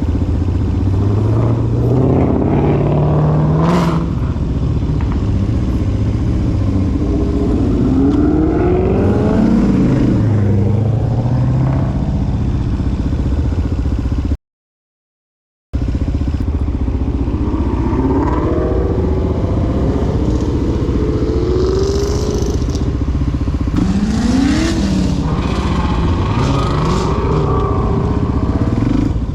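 Suzuki DR-Z400SM's single-cylinder four-stroke engine under way, its pitch rising and falling repeatedly as the bike accelerates and shifts, over steady riding noise. The sound cuts out completely for about a second just before midway.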